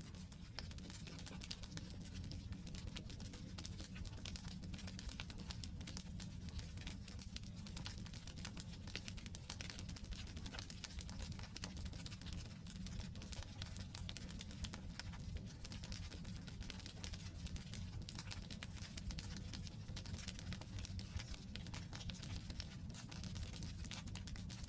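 Wood campfire burning: dense, irregular crackling and popping of the logs over a steady low rumble.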